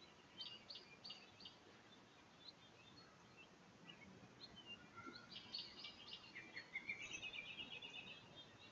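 Faint songbird calls over quiet background: a group of four short chirps about half a second in, then scattered notes, and a busier run of chirps ending in a rapid trill in the second half.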